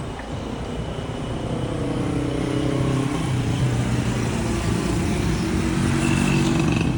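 A road vehicle's engine running as it goes by on the street. It is a steady hum over tyre and traffic noise that slowly grows louder.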